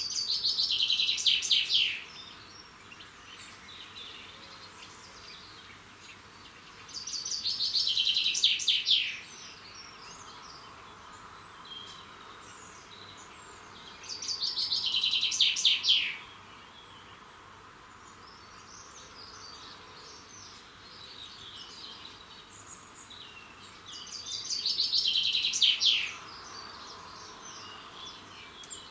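A songbird repeating a short, loud song four times, roughly every seven seconds, each a quick series of notes falling in pitch and lasting about two seconds. Other birds chirp faintly in between.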